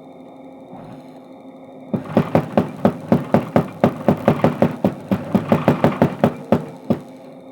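Mechanical power hammer striking hot steel crowbar stock in a fast run of blows, about five a second, starting about two seconds in and stopping after some four and a half seconds, with one last single blow near the end. The hammer's motor hums steadily underneath.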